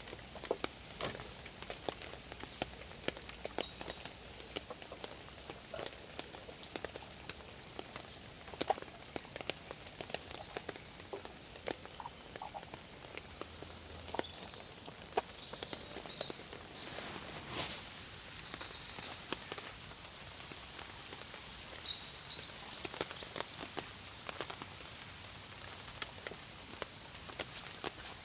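Rain falling, with many separate drops landing as sharp irregular taps over a steady hiss.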